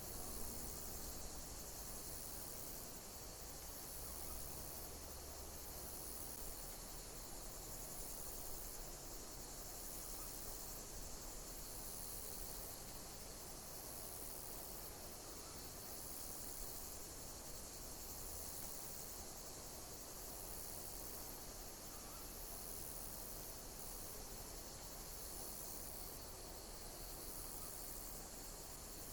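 Insects chirping high and rhythmically, a pulse repeating about every second and a half over a steady background hiss.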